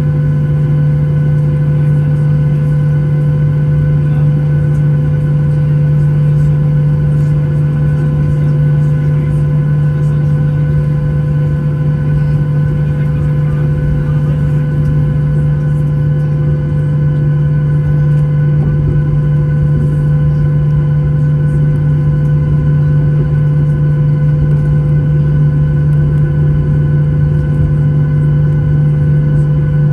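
Steady cabin drone of a Boeing 737-800, with a strong low hum and several steady tones from its CFM56 engines running at low power, as heard from a passenger seat.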